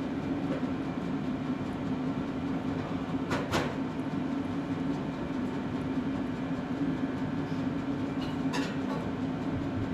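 A small motor running with a steady hum. Two short sharp clicks or scrapes come through it, one about three and a half seconds in and one near the end.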